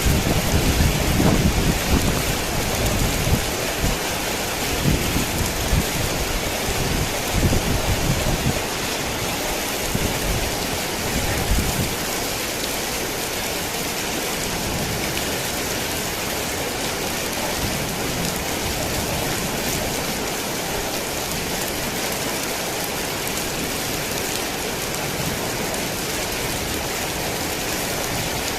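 Heavy rain pouring steadily, with a low rumble of thunder rolling through the first dozen seconds before fading, leaving the even hiss of the downpour.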